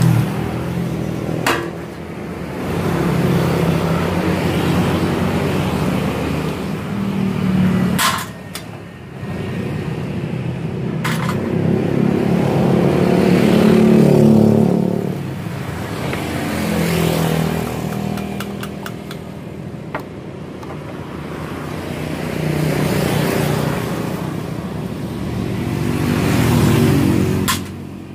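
Motor vehicle engines running and revving, rising and falling in swells a few seconds long, with a few sharp knocks, one about eight seconds in and one near the end.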